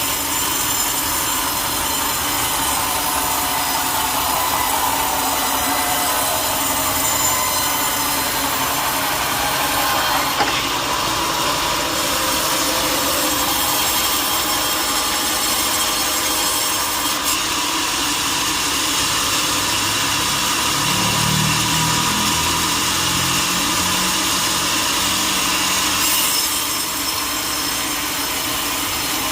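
Sawmill saw cutting through teak wood: a steady, continuous sawing noise with a thin whine running through it.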